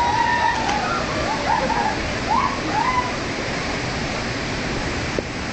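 Waterfall rushing steadily. A few brief voices call out over it during the first three seconds.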